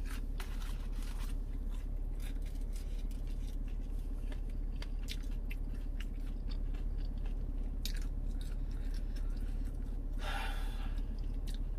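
A person chewing a mouthful of chicken nugget close to the microphone, with many small wet smacking clicks. There is a short rush of noise about ten seconds in.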